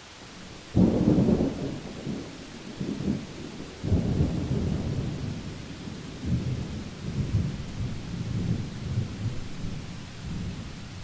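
Thunder over a steady hiss of rain: a sudden loud crack-and-rumble about a second in, a second surge a few seconds later, then rolling rumbles that slowly die away.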